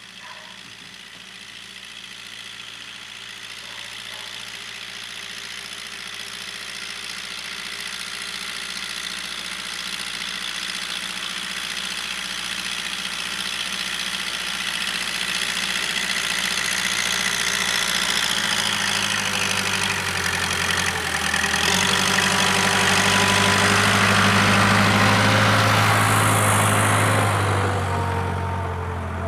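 Case 580K loader backhoe's diesel engine running, growing steadily louder, with a deeper, heavier tone coming in about two-thirds of the way through.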